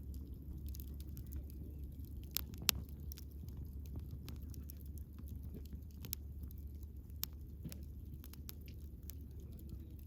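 Wood bonfire crackling: scattered sharp pops and snaps over a low steady rumble, with two louder snaps in quick succession about two and a half seconds in.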